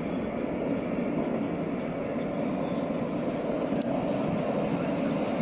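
Military jet engine noise: a steady, even noise with most of its energy in the low and middle range.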